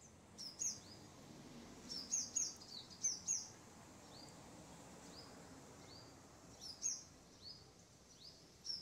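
A small bird chirping: short, high, rising chirps, often in quick pairs, repeated every second or so over a faint steady background hiss.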